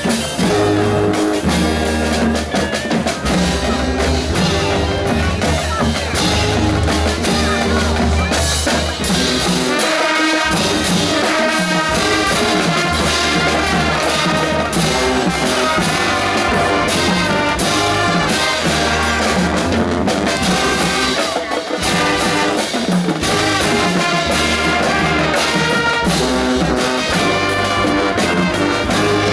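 Marching band music: the brass section, trumpets and trombones, playing held chords over a steady low beat.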